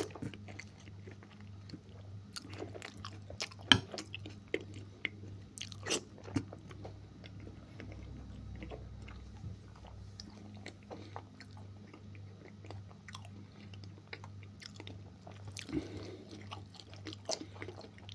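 Close-up wet chewing and mouth sounds of a man eating beef offal from a metal spoon, with scattered sharp clicks of the spoon against teeth and plate. A steady low hum runs underneath.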